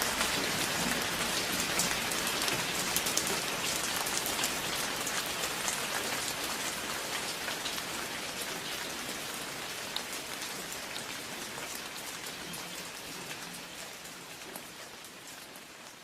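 Steady rain falling on a hard surface, with many individual drops ticking through the hiss, gradually fading out toward the end.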